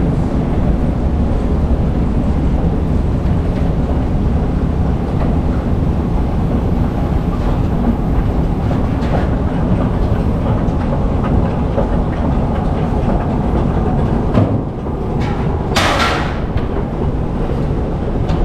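New York City subway train running on the rails: a loud, steady rumble with clickety-clack from the wheels. There is a brief high hiss about three-quarters of the way through.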